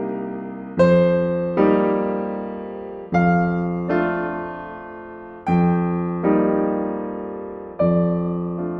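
Slow, gentle solo piano music: chords struck about every three-quarters of a second and left to ring and fade before the next.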